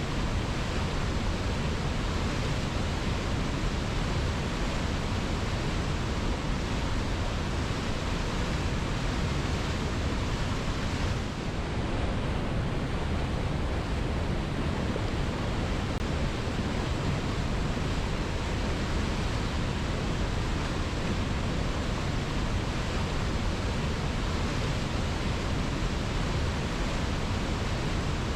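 Waterfall: a steady, even rush of falling water, dipping slightly for a moment about eleven seconds in.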